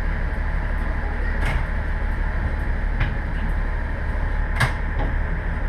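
Diesel railcar engine idling at a standstill, a steady low rumble, with three short sharp clicks or knocks spread through it.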